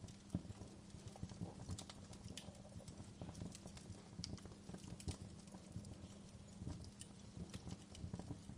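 Wood fire crackling: irregular sharp pops and snaps, several a second, over a faint low steady hum.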